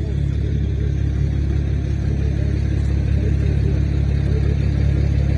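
Tractor engine running steadily: a deep, continuous low rumble that grows slightly louder towards the end.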